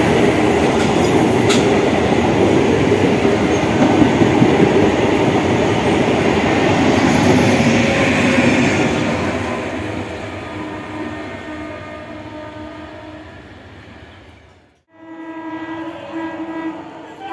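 Lalgola–Sealdah MEMU electric local train passing close at speed, its wheels clattering over the rail joints, the noise fading away as it recedes. After a cut near the end, another approaching train's horn sounds in several blasts.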